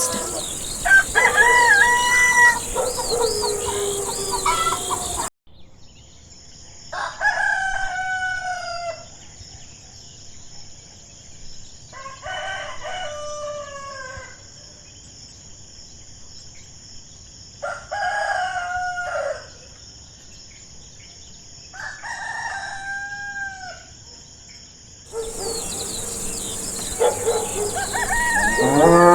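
Roosters crowing again and again, with hens clucking. In the middle stretch, four separate crows come about every five seconds over a steady high whine.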